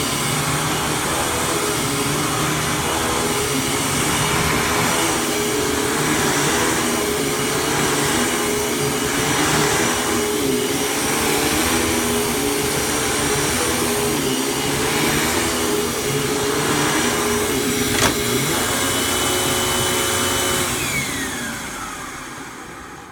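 Hoover Fold Away upright vacuum cleaner's 12-amp motor running, its tone wavering. A sharp click about 18 seconds in, then near the end the motor winds down with a falling whine.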